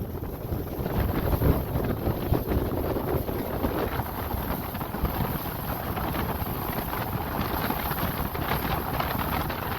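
Wind buffeting the microphone: a continuous, gusty rumble with no clear pitch.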